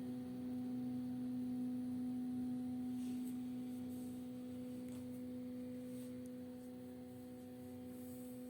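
Bambu Lab A1 3D printer's motors sounding one steady, held tone with overtones, a fairly low hum-like pitch that does not change.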